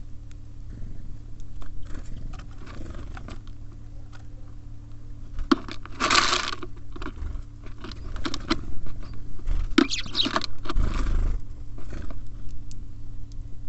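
Small birds on a feeder: claws tapping and scraping and beaks pecking at seed, in scattered quick clicks, with louder rustling flurries about six and ten seconds in.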